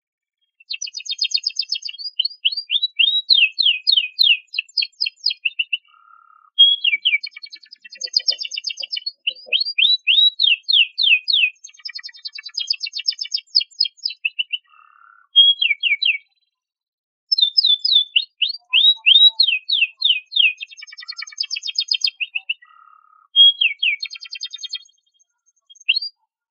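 Domestic canary singing: long phrases of fast, rolling trills and rapidly repeated high notes, broken by short pauses of about a second.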